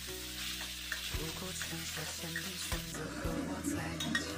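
Minced meat sizzling in plenty of oil in a wok while a metal ladle stirs and scrapes it; the sizzle thins over the last second or so, with a few light clicks of metal on the pan as the meat is scooped out.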